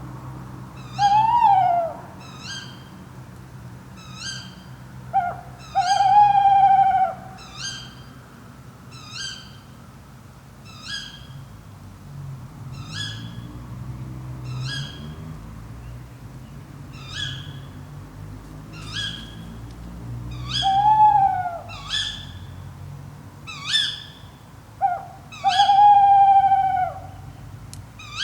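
Tawny owl hooting: a single falling hoo, a pause of a few seconds, then a short note and a long wavering hoo, given twice. Short high calls repeat about once a second throughout.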